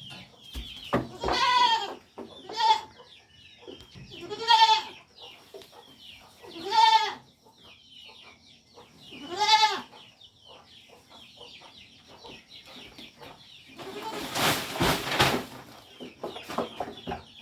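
Goat bleating five times, each a short wavering call, spread over the first ten seconds. Near the end comes a louder rushing noise lasting about a second and a half.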